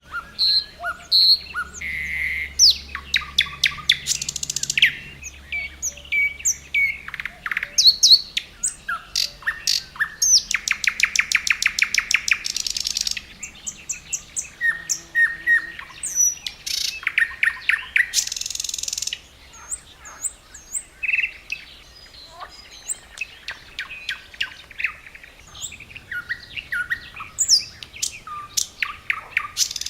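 Thrush nightingale singing: a varied sequence of whistled notes, looping upslurs and fast, hard rattling trills, separated by short pauses.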